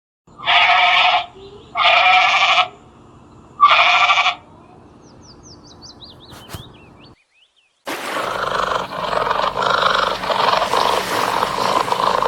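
A bleating goat or sheep: three loud bleats of about a second each, the last one shorter. From about 8 s in, after a brief silence, comes a different steady, noisy sound from another clip.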